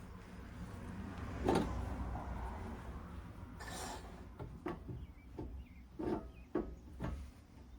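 Tools and metal parts knocking and clicking as they are handled, with a heavier thump early on, a short scraping rush of noise near the middle, and a quick string of about five sharp knocks in the second half.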